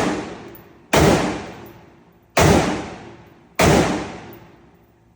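Franklin Armory Binary AR-15 pistol fired in semi-automatic: three single shots a little over a second apart, each with a long echoing decay. It opens on the dying tail of the previous shot.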